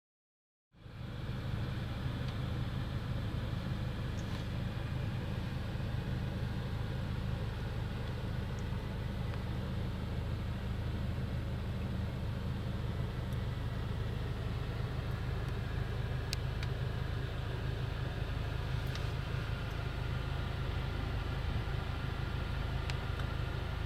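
2024 Audi S3 Sportback's 2.0-litre turbocharged four-cylinder with Akrapovic exhaust running at a steady, unchanging pitch, a low even drone, with a few faint ticks. The sound cuts in abruptly under a second in.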